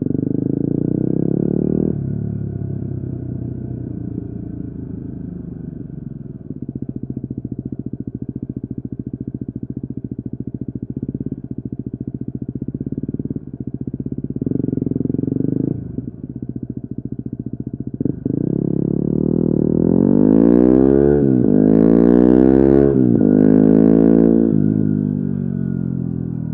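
Yamaha WR250R's single-cylinder four-stroke engine through an FMF Q4 exhaust while riding: the engine slows off the throttle and runs closed-throttle with a burbling pulse for a long stretch. Near the end it pulls hard up through several gears, its pitch rising and dropping at each upshift.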